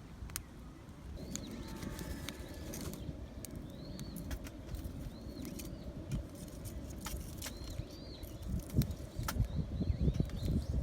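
A small bird chirping over and over in short arched notes, over steady low rustling, scattered sharp clicks and, in the last few seconds, dull thumps from handling gear.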